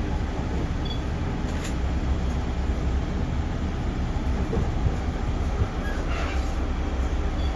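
JR Central 311 series electric multiple unit running: a steady low rumble of wheels on rail with a few faint clicks.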